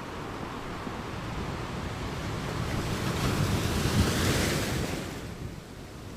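Sea waves: one wave's hiss swells, peaks about four seconds in, then washes away, over a steady low rumble of wind on the microphone.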